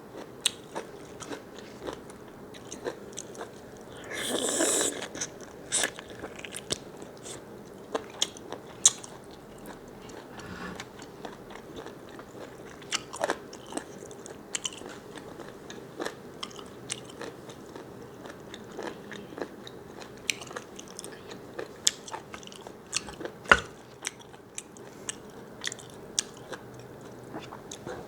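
A person biting and chewing squid close to the microphone, with many small sharp crunches and mouth clicks. About four seconds in there is one louder rushing sound lasting about a second.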